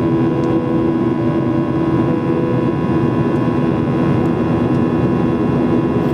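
Steady cabin noise inside a Boeing 737-800 in flight: jet-engine drone and rushing air, with a few constant hums running through it.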